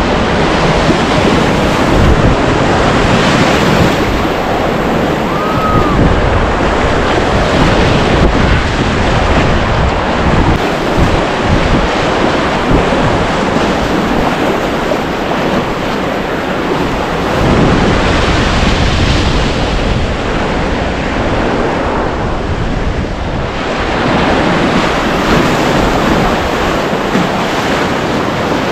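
Rushing whitewater of a river in high spring flow, a dense, steady roar of water that swells and eases every few seconds, heard close up from the kayak.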